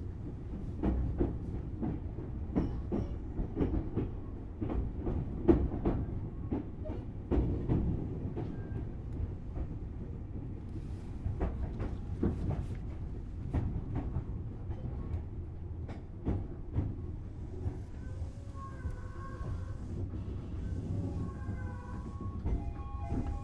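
Tobu 6050-series electric train car heard from inside while running: a steady low rumble with quick clicks of the wheels over rail joints. The clicks thin out, and thin wavering squeals come in during the last few seconds.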